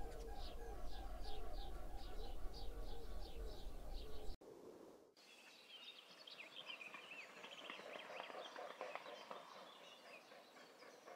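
Wild birds calling: a call repeated about three times a second over a low rumble, then after an abrupt cut about four seconds in, a busier mix of small birds chirping.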